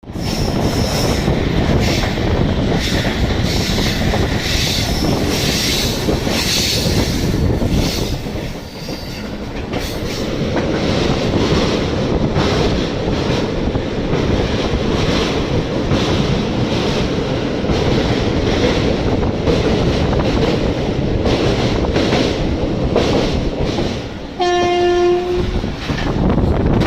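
A vehicle's steady, loud running rumble, with one short horn blast about 24 seconds in.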